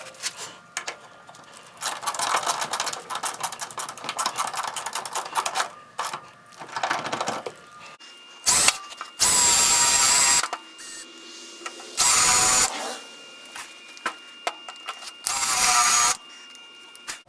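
A run of rapid clicking from hand tool work, then a cordless drill-driver whirring in three bursts of about a second each, driving in small screws.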